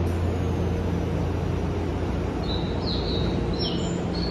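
Steady low hum of a stationary Shinano Railway SR1 series electric train at a platform. A few short, high chirps of small birds come in the second half, some falling in pitch.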